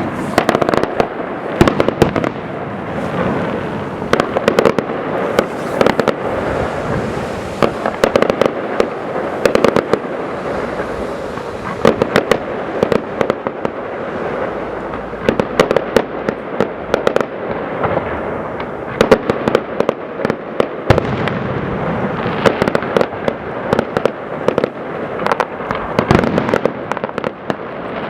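Fireworks going off in a dense, continuous barrage of bangs and crackles, with many sharp reports close together.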